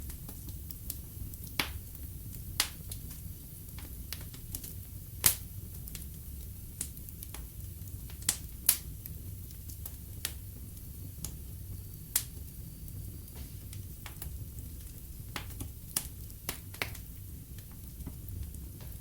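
Wood fire in a fireplace crackling: irregular sharp pops and snaps from the burning logs, the loudest about five seconds in, over a low steady rumble of the flames.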